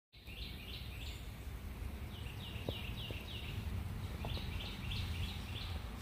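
A small bird singing three phrases, each a quick run of short falling notes, over a steady low rumble.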